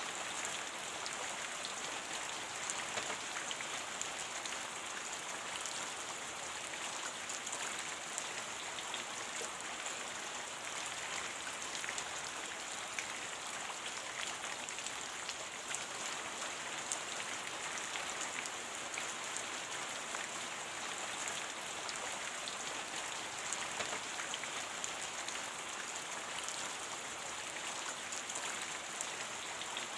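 Steady rain: an even hiss of falling drops with many small patters scattered through it.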